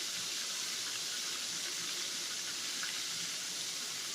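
Floured liver frying in hot oil in a pan, a steady sizzling hiss. The cook takes the quietening sizzle as the sign that the pieces are ready to turn over.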